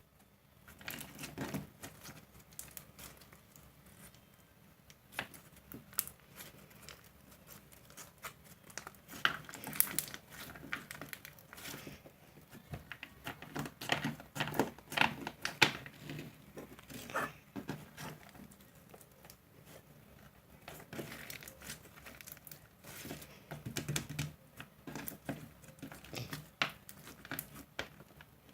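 Slime being squeezed, stretched and poked by hand, giving irregular sharp clicks and pops that come in clusters.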